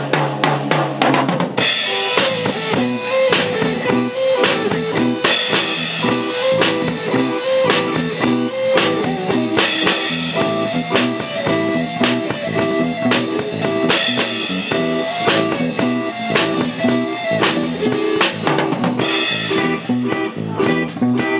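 Live band rehearsing: a drum kit plays alone for a moment, then bass and other pitched instruments come in with the full band about a second and a half in, over a steady kick-and-snare beat.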